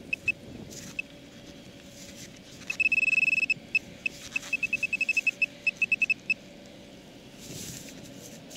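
High-pitched electronic beeps from a metal-detecting pinpointer probing the dig hole, signalling metal: a few short beeps, a solid tone about three seconds in, then a run of rapid beeps. A faint steady hum and a few soft scrapes run underneath.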